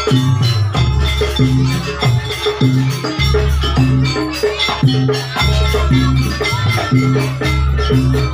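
Live jaranan ensemble music: a loud repeating low melodic pattern with dense drumming and shaken, jingling percussion on top.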